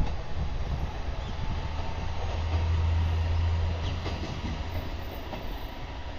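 Diesel railcar train running past, a low engine rumble with wheel noise on the rails. The rumble is loudest from about two and a half to four seconds in, then eases off.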